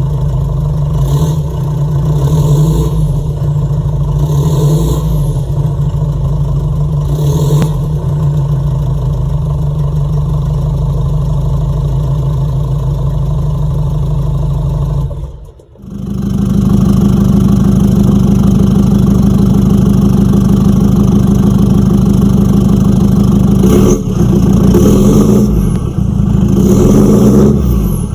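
Jeep Liberty CRD's 2.8-litre four-cylinder turbo diesel running loud through a straight-piped side-dump exhaust, blipped up a few times. After a brief break about halfway it runs at a slightly higher steady speed, with more revs near the end.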